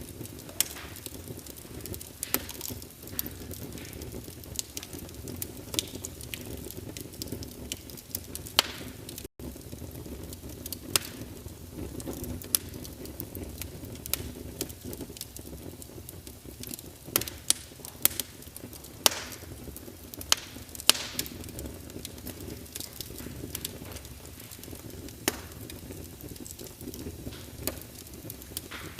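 Wood fire burning in a fireplace: a steady low rumble of flames with irregular sharp crackles and pops of the burning logs, a few louder pops about two-thirds of the way in.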